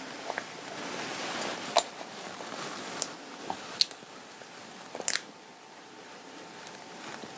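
Fabric and small tools being handled: light rustling with a few sharp clicks, about four in all, the loudest near the middle.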